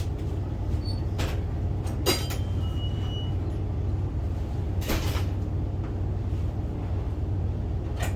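A steady low machine hum, with four short sharp knocks or clatters spread through it.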